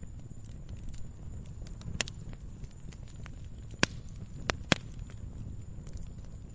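Wood fire burning: a steady low rumble of flames with scattered sharp crackles and pops from the burning logs, the loudest pops a little under four seconds in and again just before five seconds.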